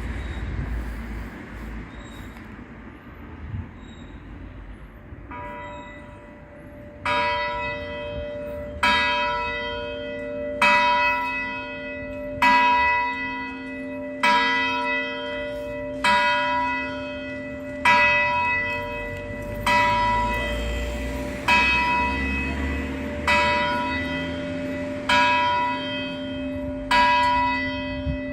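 A 312 kg church bell, cast in 1987 and tuned to B (h1), swung by an electric drive with a tied clapper. It starts striking about five seconds in, then gives one stroke about every two seconds. Each stroke lands on one side only: the uploader puts the one-sided ringing down to the clapper binding and a weak drive magnet.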